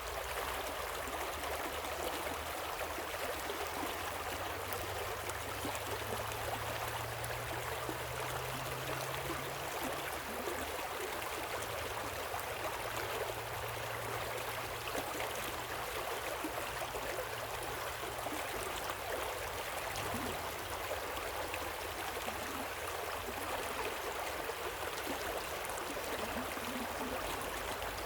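Waterfall and stream water rushing in a steady, unbroken splash and hiss.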